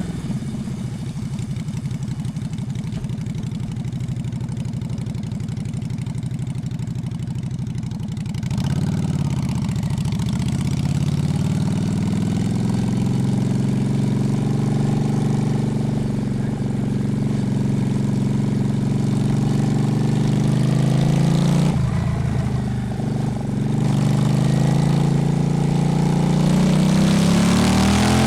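Honda Shadow's V-twin motorcycle engine, first idling steadily as if stopped, then pulling away about a third of the way in, with the pitch rising as it accelerates. It runs on under way, drops off briefly near a gear change, then climbs again toward the end.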